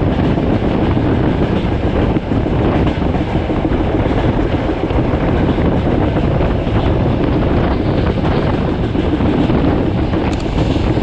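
Passenger train running at speed, heard at an open carriage window: a loud, steady rumble of wheels on rails mixed with the rush of passing air.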